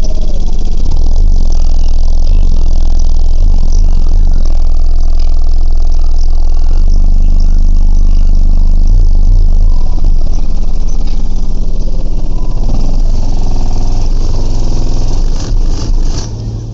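Car audio subwoofers playing deep bass at very high volume, overloading the microphone; the low notes shift in steps rather than holding one tone.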